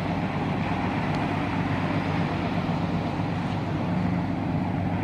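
Motorboat engine running steadily: an even low hum under a broad hiss of wind and water.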